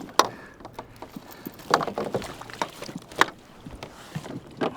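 Four sharp knocks against a kayak, roughly a second and a half apart.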